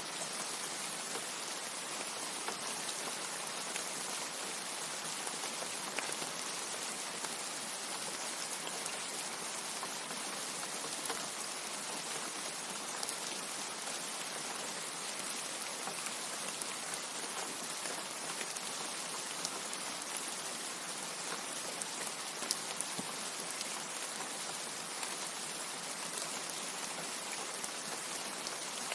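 Steady rain: an even hiss of rainfall with scattered individual drop ticks and no thunder.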